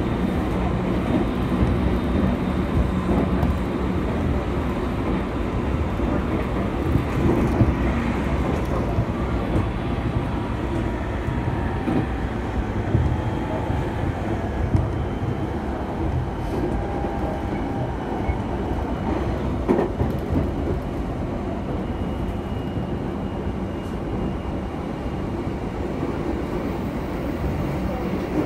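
Yokosuka Line electric train running at speed, heard from inside the carriage: a steady rumble of wheels on rails, with a few sharp clicks along the way.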